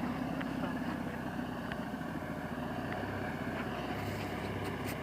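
A homemade all-terrain vehicle's Ural engine running steadily, with a few sharp clicks near the end.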